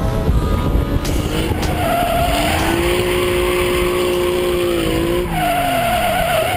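Ford Mustang Cobra's V8 under load while drifting, heard from inside the car, with the tyres squealing. The revs climb, hold steady for a couple of seconds, then drop away sharply about five seconds in.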